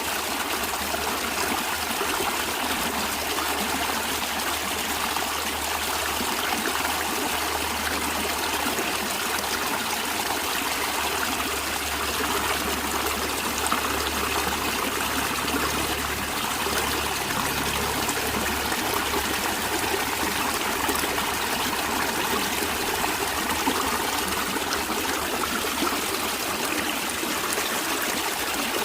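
Stream water running and trickling steadily over rocks.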